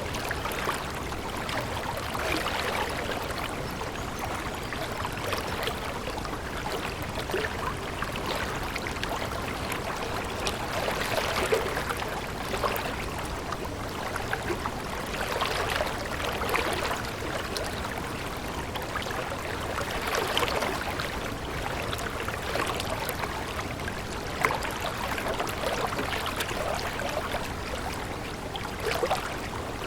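A stream of flowing water, running steadily with small gurgling splashes that swell and ease every few seconds.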